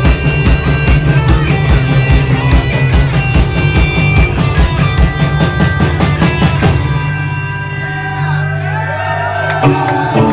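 Rock band playing live: distorted electric guitar, bass and fast, steady drums. About seven seconds in the drums drop out, leaving held guitar and bass chords with notes bending up and down, and a single hit shortly before the end.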